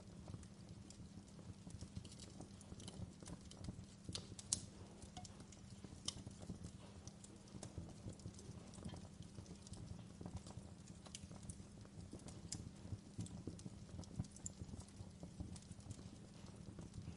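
Wood fire crackling in a fireplace: small irregular pops and snaps over a low steady rumble of the burning logs, with a sharper pop about four and a half seconds in and another about six seconds in.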